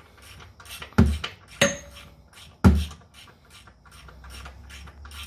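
Sharp metallic knocks and clanks of tools and parts being handled during work on a car: three loud knocks about a second apart, the second with a brief metallic ring, among lighter clicks and rattles.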